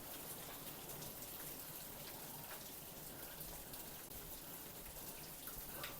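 Steady light rain: a faint, even hiss with scattered ticks of individual drops.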